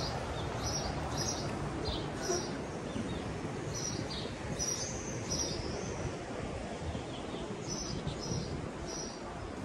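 A small bird chirping in short, high notes, in runs of a few chirps with a pause of a couple of seconds midway, over steady outdoor background noise.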